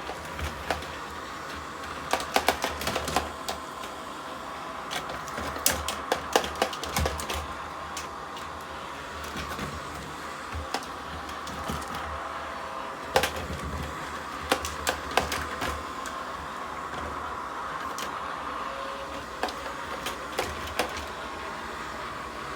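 Robot vacuum cleaner running with a steady hum, with scattered sharp clicks and knocks in clusters.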